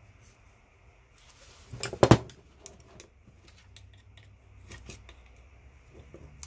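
Metal parts and hand tools handled on a worktable while a cast aluminum massager is taken apart for scrap: a sharp knock or clatter about two seconds in, then scattered light clicks and taps.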